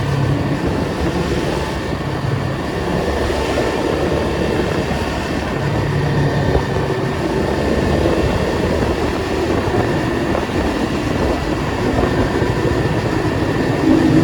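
Datsun 280Z's straight-six engine running steadily at low revs in slow traffic, a constant drone that swells slightly now and then, over road noise.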